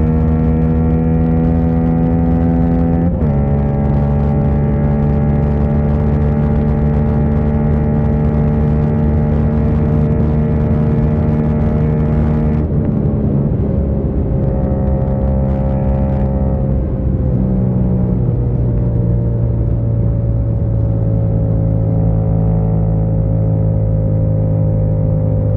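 Yamaha MT-07's 689 cc parallel-twin engine running at steady cruising speed, heard from the rider's seat, with wind rushing past. The engine note drops in steps about three, thirteen and seventeen seconds in, and the wind hiss falls away around thirteen seconds.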